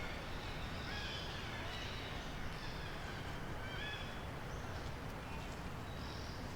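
Forest ambience: a steady background hiss with short, high chirping animal calls recurring every second or so.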